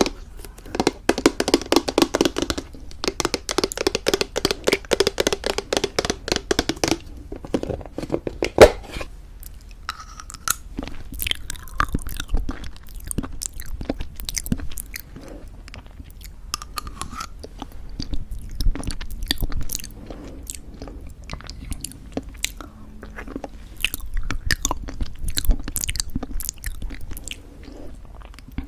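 Chewing and crunching a mouthful of homemade granola in thick yogurt. The crunching is rapid and dense for the first seven seconds or so, then turns to slower, sparser crunches, with one sharp loud crack about nine seconds in.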